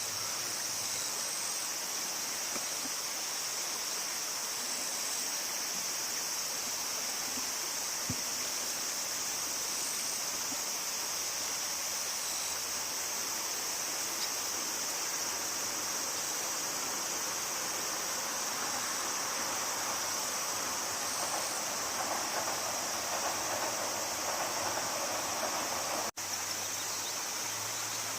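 River water flowing steadily, with a continuous high-pitched insect drone over it. The sound cuts out for an instant near the end.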